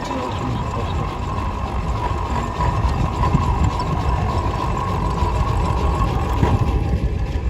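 A machine running steadily with a pitched whine that dies away near the end, over a heavy low rumble.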